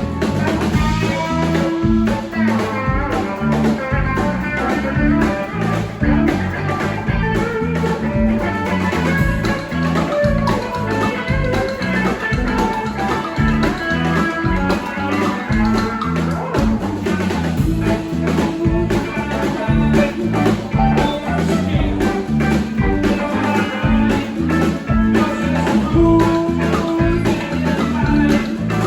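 Live band playing an instrumental blues-rock passage: electric guitar lines over bass and a drum kit keeping a steady beat.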